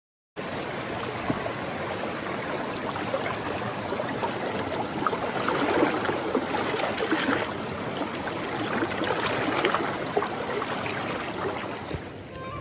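Steady rushing, trickling water, starting just after a brief moment of dead silence.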